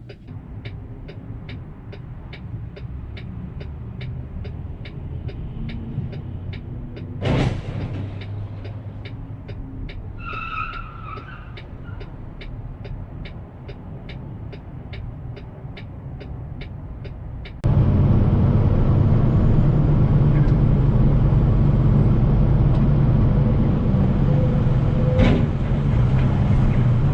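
Road vehicle noise recorded by a dashcam: a low engine and road rumble with an even, regular ticking. About two-thirds of the way through it changes abruptly to much louder road rumble. Two sharp cracks stand out, one about a quarter of the way in and one near the end.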